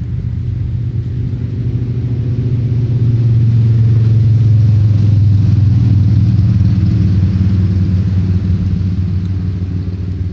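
A motor vehicle's engine running with a low, steady rumble that grows louder through the middle and then eases off again.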